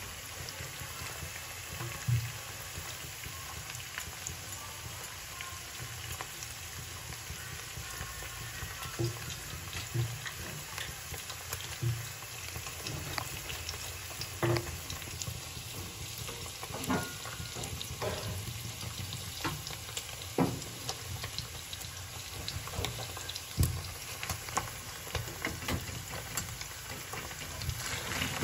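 Paneer cubes frying in oil in a kadai: a steady sizzle with scattered sharp ticks.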